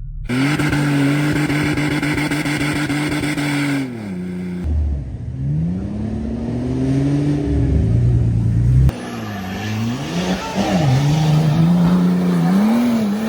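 Off-road truck engines revving hard, pitch rising and falling with the throttle, in several short clips that change abruptly about four and nine seconds in.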